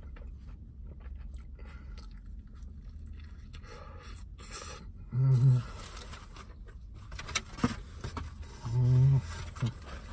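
A man chewing a mouthful of a cheesesteak torta with his mouth closed. He gives two loud hummed "mmm"s, about five seconds in and again about nine seconds in, over a low steady rumble.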